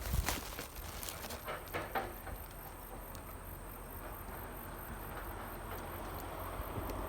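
JR Shikoku KiHa 54 diesel railcar rumbling low and steadily, slowly growing louder. A few sharp clicks come in the first two seconds.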